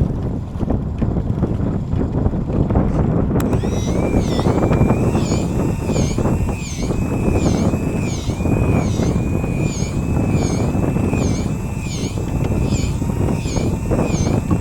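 Wind buffeting the microphone over the rumble of a boat at sea. About three seconds in, a high warbling whine starts suddenly and keeps repeating about one and a half times a second.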